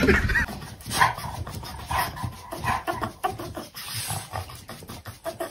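A thump at the very start, then a dog whining in short calls, about two a second.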